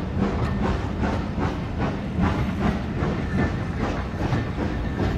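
Train running along the track, with a steady rumble and a run of clicks and knocks from the wheels on the rails.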